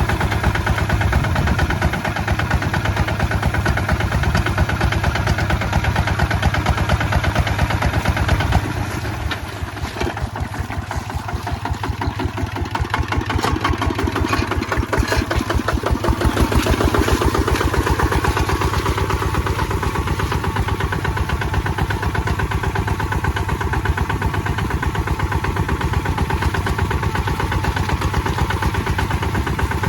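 Kubota ZT155 single-cylinder diesel running steadily with a regular firing beat. It drops in level about eight seconds in and grows louder again around sixteen seconds.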